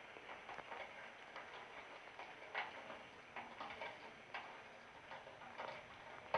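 Faint, irregular taps of dripping rainwater, a few a second with no steady rhythm, as a rainstorm eases off.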